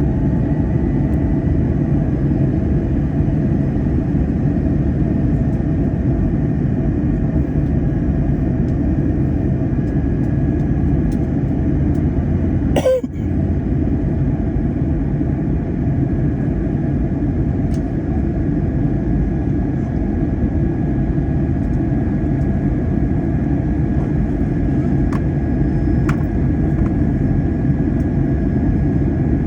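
Steady low rumble of an Airbus A321's engines and airflow heard inside the passenger cabin, with faint steady tones above it. About thirteen seconds in there is one brief sharp crackle.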